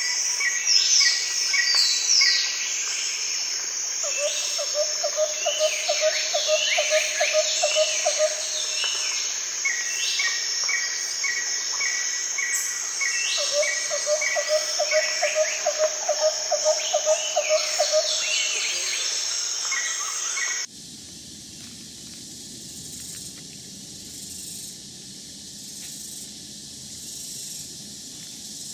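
Rainforest chorus of insects and birds: a steady high insect shrill under repeated chirps and falling whistled calls, with a lower pulsing trill twice. About twenty seconds in it cuts suddenly to a quieter, even hiss with faint ticks.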